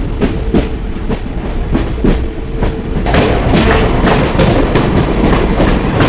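Moving passenger train, its wheels clacking in a rhythm over the rail joints. About halfway through the running noise grows louder and fuller.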